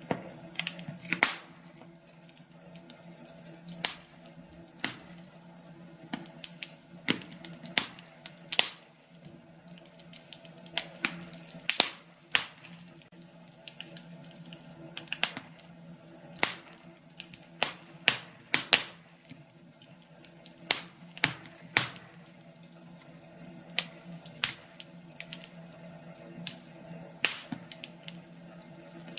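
Wood fire crackling in a fireplace: irregular sharp pops and snaps from the burning logs, sometimes in quick clusters, over a steady low rush of the flames.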